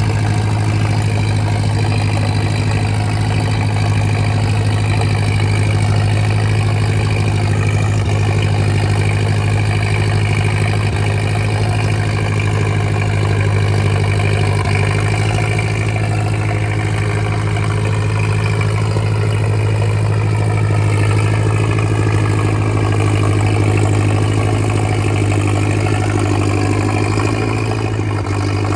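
Tractor engine running steadily at an even speed, with a constant deep hum and no revving.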